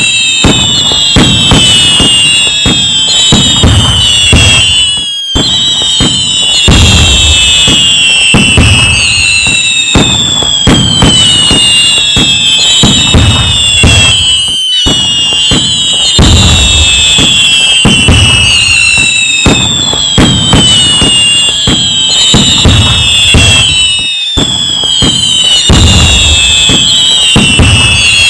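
Loud fireworks going off without pause: deep booms, dense crackling and many short whistles falling in pitch, all layered together. The same stretch of sound repeats about every nine and a half seconds, each time after a brief drop-out.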